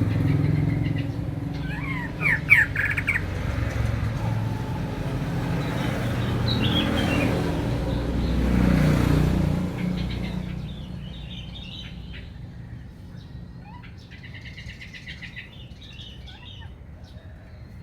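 Oriental magpie-robin singing in short chirps and a falling whistle, then quicker, quieter chirping phrases. A vehicle's low rumble runs under the first half and fades out about ten seconds in.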